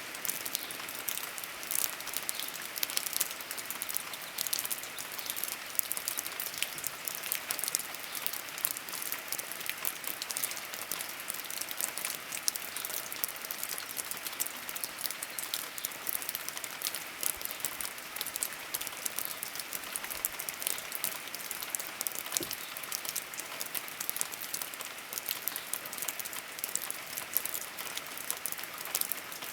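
Steady rain falling, with many fine drop ticks pattering on a surface over an even hiss.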